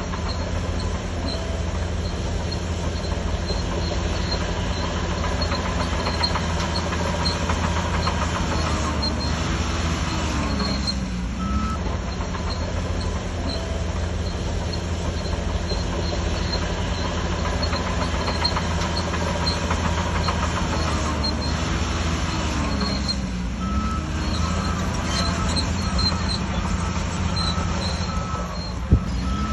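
Shantui DH17C3 crawler bulldozer's diesel engine working steadily under load. The engine pitch dips and comes back up twice, with intermittent high squeaks and one sharp click near the end.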